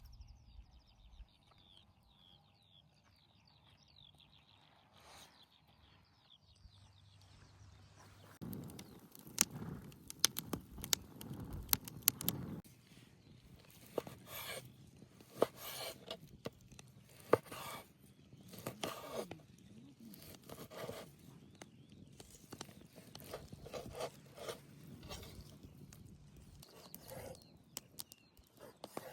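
Quiet outdoor background with faint bird chirps for the first several seconds. After that comes a long run of sharp clicks, knocks and scrapes from things being handled and set down, irregular and several a second at times.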